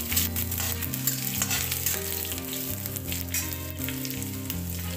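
Cumin, garlic, green chilli and crushed ginger sizzling in hot oil in a metal kadhai, while a metal spatula stirs and scrapes against the pan with many light scrapes and clicks.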